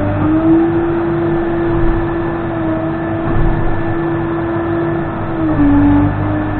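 Case 580N backhoe's diesel engine running steadily while the machine works, its note sagging briefly and recovering near the end.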